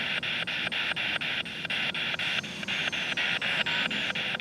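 Spirit box (a radio sweeping rapidly through stations) hissing static, chopped evenly about six times a second as it jumps from station to station.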